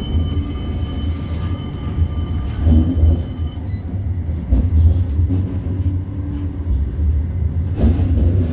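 A CAF Urbos 3 tram heard from inside the passenger saloon while it runs between stops: a steady low rumble from the running gear on the rails. For the first three and a half seconds, several steady high-pitched tones sound over the rumble, then stop.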